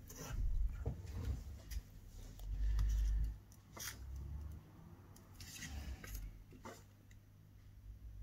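Handling noise as the camera is moved closer over a workbench: dull bumps and rumble with scattered clicks and rustling, loudest about a second in and again around three seconds, over a steady low hum.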